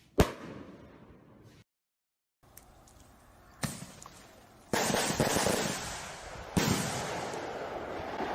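Fireworks exploding: a sharp bang just after the start, a short dead gap, a second bang, then from about halfway through a louder, continuous barrage of bursts with another bang near the end.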